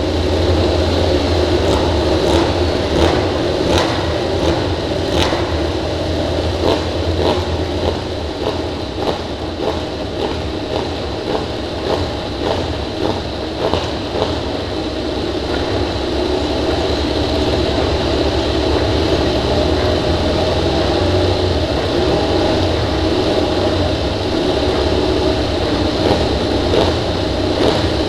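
MotoGP racing motorcycle engines running loudly and steadily, with many short sharp cracks through the first half.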